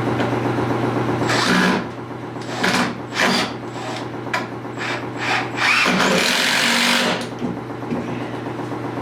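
Cordless power drill running in several short bursts, the longest about a second, driving screws into a wooden 2x2 frame, over a steady low hum.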